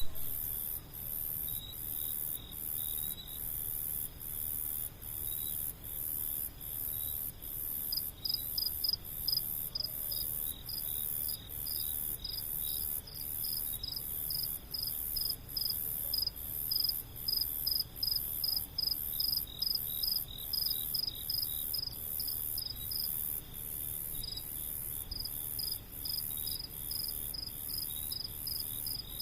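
Night insects chirping: one very high-pitched call pulses steadily about one and a half times a second, and a second, lower and faster chirping joins in about eight seconds in.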